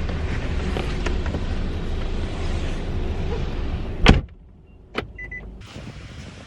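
Steady car cabin rumble, then a car door shutting with a loud slam about four seconds in that cuts the rumble off. A sharp click and a short beep follow, like a car locking, then a faint wind hiss.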